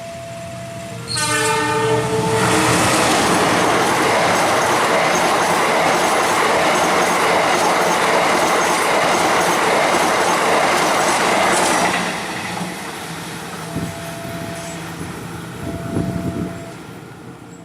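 Passenger train sounding a short horn blast about a second in, then rushing past at speed with its wheels clattering over the rail joints for about ten seconds before the noise falls away.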